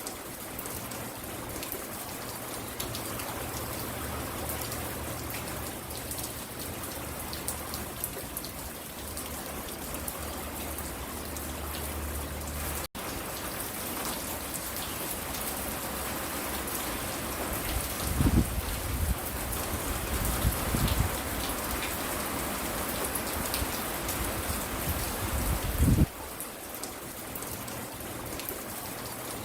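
Steady rain falling by a front porch: an even hiss with a fine patter of drops. A few low rumbling thumps come about two-thirds of the way in and once more near the end. The sound cuts out for an instant a little before halfway.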